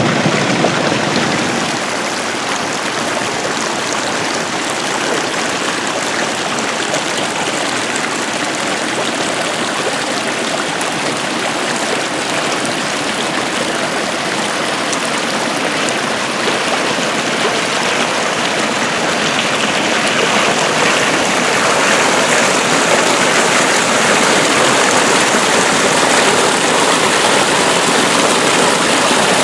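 Water rushing steadily along an irrigation ditch (acequia), growing a little louder about two-thirds of the way through.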